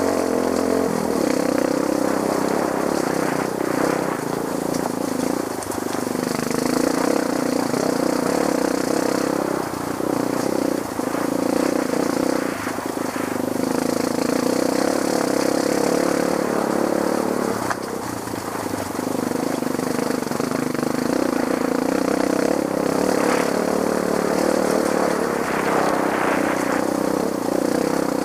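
Trail motorcycle engine running under changing throttle, its pitch rising and falling as it rides, with a short drop in revs about eighteen seconds in.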